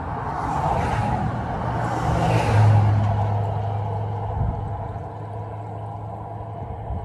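Vehicles passing by in three whooshes over a steady low engine hum, which swells about two and a half seconds in and then fades.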